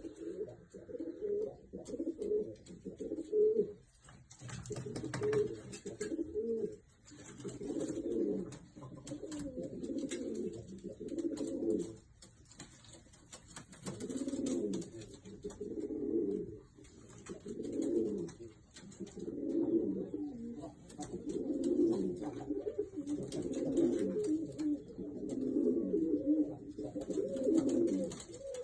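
Domestic pigeons cooing in repeated bouts of a few seconds each, with brief pauses between them.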